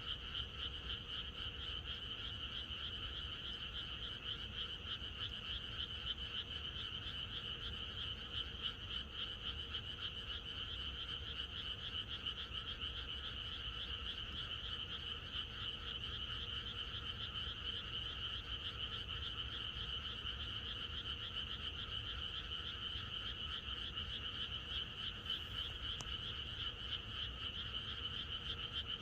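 A dense chorus of many frogs calling together, their overlapping calls forming a steady, unbroken din.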